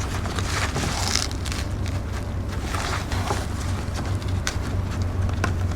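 A steady low hum and rumble under a noisy background, with a few light clicks.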